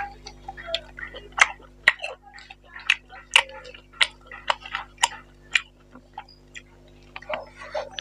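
Close-miked eating: a person chewing a mouthful of mutton curry and rice with open-mouthed smacking, heard as irregular sharp clicks, one or two a second.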